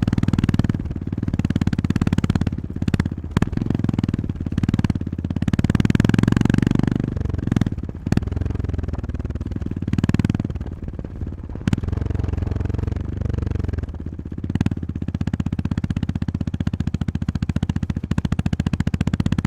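Honda GB350S single-cylinder engine running under way, the throttle opening and closing. Its pitch drops and rises in two spells, about seven and about twelve seconds in, as it shifts or eases off.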